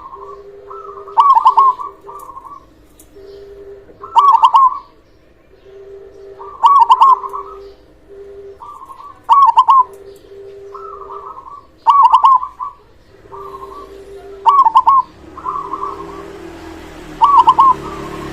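Zebra dove (perkutut) cooing: its loud, rolling song phrase repeated about every two and a half seconds, seven times, with softer coos between. A low rumble and hiss rises near the end.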